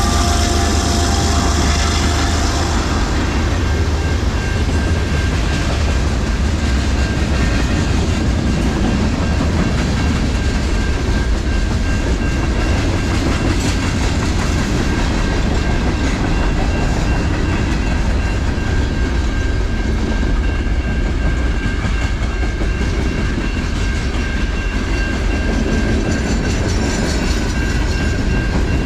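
A train passing close by with a steady heavy rumble and wheels clattering over the rails. The chord of a locomotive horn dies away about two seconds in.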